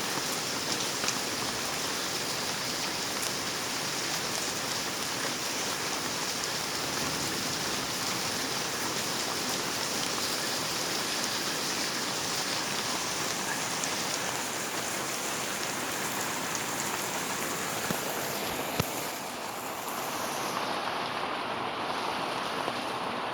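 Heavy rain falling steadily, a dense hiss with a few sharp drop taps. About two-thirds of the way through the high hiss thins out and a lower rushing sound takes over.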